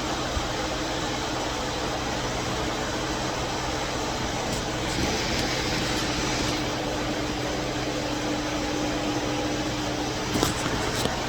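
Steady machine hum with a constant rush of air noise, as from workshop ventilation or a compressor. A brighter hiss comes in for about two seconds around the middle, and a few sharp clicks follow near the end.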